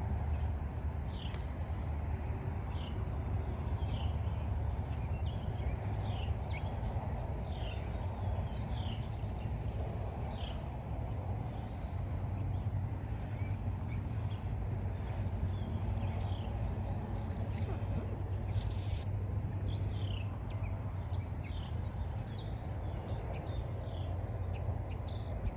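Small birds chirping, with short high chirps scattered all through, over a steady low rumble.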